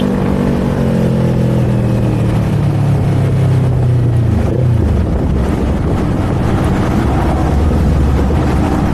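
Kawasaki Z400 parallel-twin engine with revs falling steadily as the bike slows, then about four and a half seconds in dropping to a low, steady idle.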